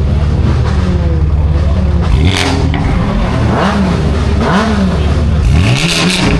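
A car engine holding a steady speed, then revved up and down in repeated blips roughly once a second. A hiss comes in near the end.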